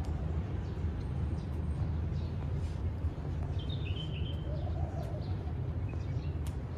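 Garden ambience: small birds chirping now and then over a steady low rumble, with a short run of chirps about halfway through.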